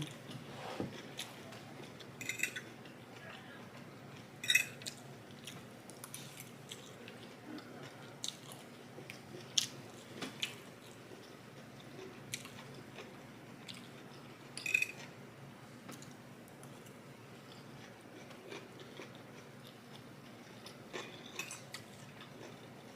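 A person chewing and biting food close to the microphone: wet mouth sounds with scattered short crunchy clicks, as in a mukbang eating turkey with the hands.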